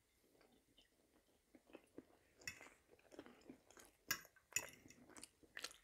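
Faint chewing and wet mouth smacks, with a few short clicks scattered through, the loudest around four and a half seconds in.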